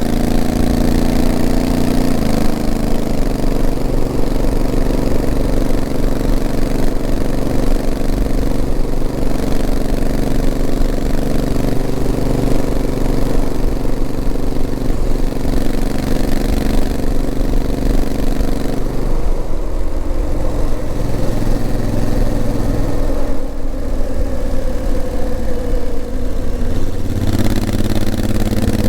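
Honda CRF1000L Africa Twin's 998 cc parallel-twin engine running at low road speed, its note stepping down about two seconds in, dropping lower and wavering a little past the middle, then stepping back up near the end as the bike's speed changes.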